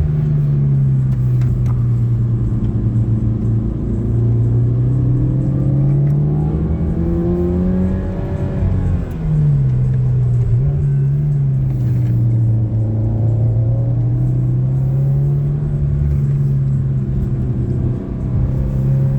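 Car engine heard from inside the cabin, driven through a run of turns: its pitch climbs steadily for a few seconds, drops sharply about nine seconds in as the driver shifts or lifts off, then eases and slowly climbs again.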